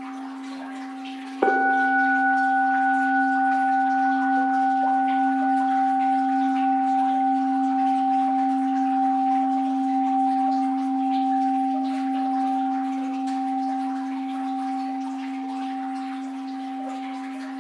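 Orin bowl bell struck once about a second and a half in, over the ring of an earlier strike. It sings on with a low hum and two clear higher tones, slowly fading, over faint flowing water.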